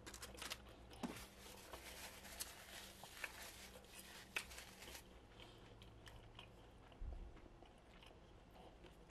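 Faint close-up chewing of a bacon, lettuce and tomato sandwich, with many small crunches that thin out after about five seconds. A low bump comes about seven seconds in.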